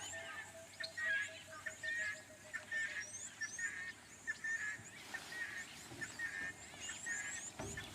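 A chorus of wild birds: many overlapping chirps, warbles and high calls, with a run of low, evenly repeated notes that fades away over the first three seconds.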